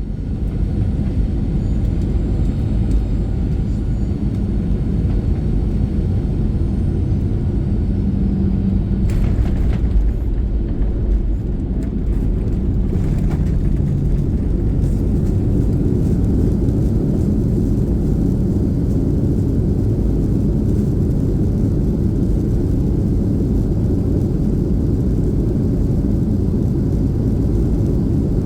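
Steady low rumble of engine and airflow noise inside a Boeing 737-800's cabin during the landing, with a few brief knocks about a third of the way in.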